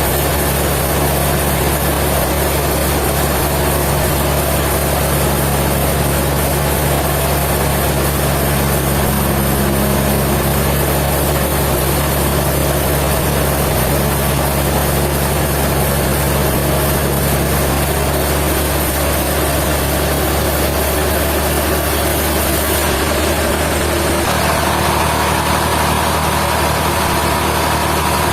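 Sawmill machinery running steadily with a constant engine-like hum; its tone changes a little near the end.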